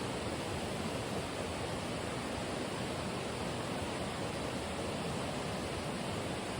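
Running water rushing steadily, a continuous even roar with no breaks or changes.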